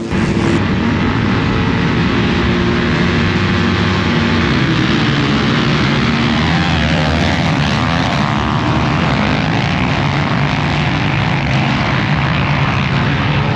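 Racing motorcycle engines running hard at high revs, loud and steady throughout.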